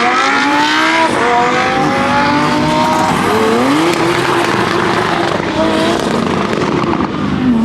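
Porsche 911 Turbo's twin-turbo flat-six accelerating hard. The engine note climbs and drops sharply at each upshift, about a second in and again about three seconds in, then pulls on.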